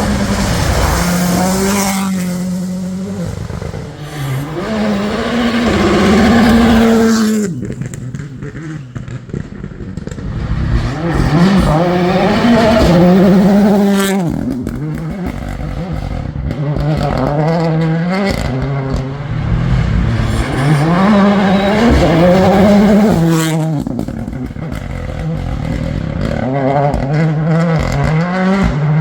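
Rally cars accelerating hard past, one after another. Each engine note climbs and drops back sharply at every gear change, with a quieter lull about eight seconds in.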